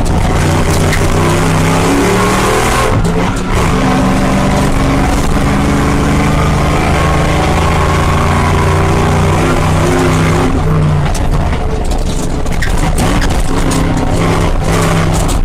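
Engine of a Bowler off-road 4x4 heard from inside the cabin, running hard under load, its pitch stepping and rising through a gear change about three seconds in. Short knocks and rattles come in over the last few seconds.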